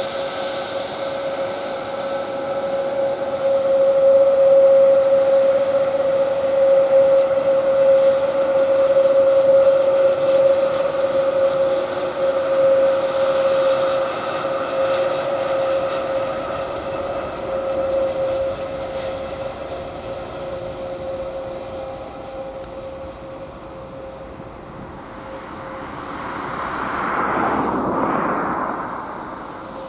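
Airbus A320 jet engines running with a steady whine, louder for several seconds and then slowly fading. Near the end there is a brief swell of rushing noise that rises and falls.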